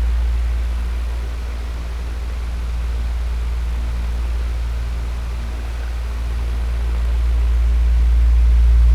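Electric fan running steadily: a deep motor hum under an even hiss of moving air, its level slowly dipping and then swelling again.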